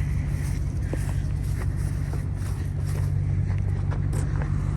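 A vehicle engine idling steadily in a low, even hum, with a few faint clicks over it.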